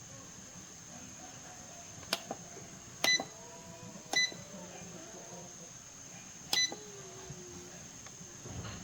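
Buttons on an electronic rice cooker's control panel being pressed: four sharp clicks, the last three each answered by a short electronic beep. A thin steady high whine sounds throughout.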